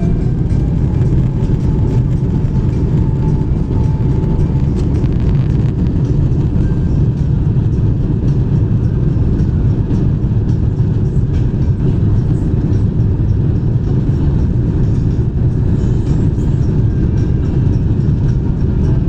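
Cabin noise of an Airbus A350-1000 on its takeoff run, with its Rolls-Royce Trent XWB-97 engines at takeoff power: a loud, steady low rumble with light rattles and knocks.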